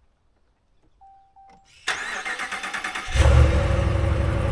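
Skoolie school bus engine cranked by the starter for about a second, then catching and settling into a steady idle. A short beep sounds just before the cranking.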